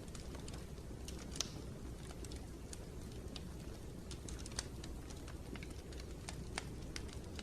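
Wood fire crackling in a fireplace: scattered sharp pops and snaps over a low steady rumble, the loudest pop about a second and a half in.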